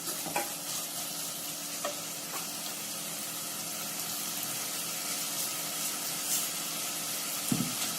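Chopped shallots with ginger-garlic paste and curry leaves sizzling steadily in hot oil in a pan, frying until soft, with a few light clicks.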